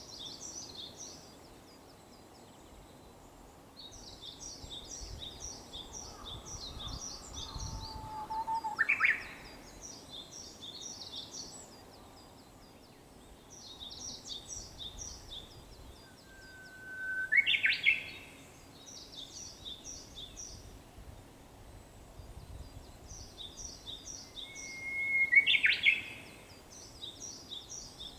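Japanese bush warbler (uguisu) singing its 'hoo-hokekyo' song three times, about eight seconds apart: a long held whistle ending in a quick rising flourish, each one pitched higher than the last. Between the songs another small bird chirps in rapid high bouts.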